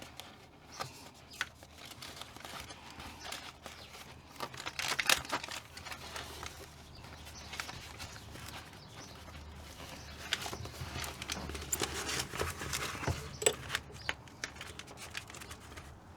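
Irregular taps, knocks and crinkling from handling and pressing sheets of sound-deadening insulation into place. It is busiest about five seconds in and again from about ten seconds in.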